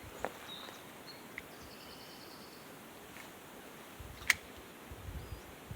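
Quiet creekside outdoor ambience with a steady faint hiss and a few short, high chirps and a brief trill in the first half. A single sharp click about four seconds in, then a few low bumps.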